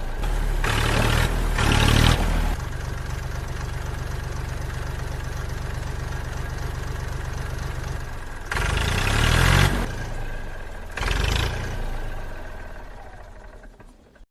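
Small engine of a mini tractor idling steadily, revved up briefly four times, then fading out near the end.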